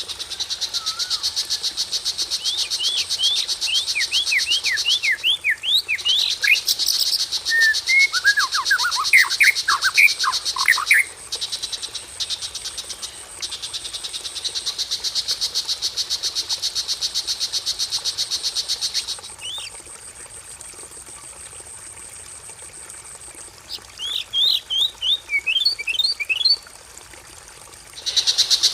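Songbird lure recording with three bursts of quick down-slurred whistled notes, sung over a dense, fast, high buzzing trill. The trill drops out about two-thirds of the way through and comes back near the end.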